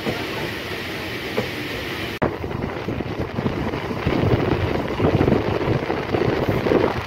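Electric multiple-unit local train running along the line, heard from on board: a steady rumble of wheels on rails with irregular rail clatter. The sound breaks off abruptly about two seconds in and comes back louder from about four seconds in.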